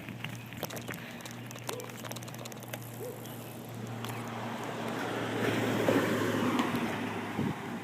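UPS delivery truck driving past: a steady engine hum with road noise that swells to its loudest about six seconds in, then eases off.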